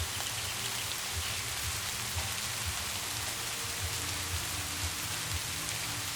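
Steady rain falling on a surface, with faint soft held music notes underneath.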